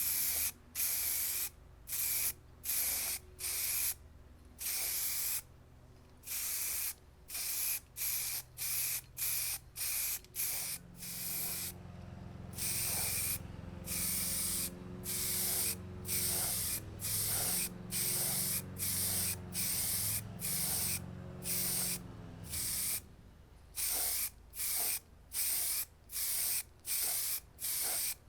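Paint or coating sprayed in short hissing bursts, roughly one a second, with brief pauses between them. A low hum runs underneath from about a third of the way in until near the end.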